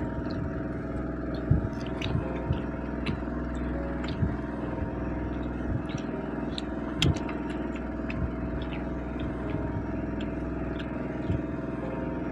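Eating sounds: scattered short clicks and smacks of fish curry and rice being eaten by hand, over a steady hum.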